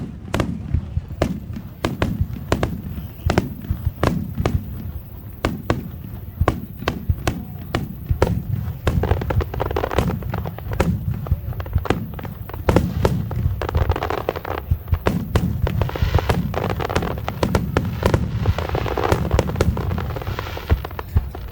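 A large aerial fireworks display: shells bursting in rapid succession, several booms a second without a break. A continuous rushing wash of sound rises under the booms in the second half.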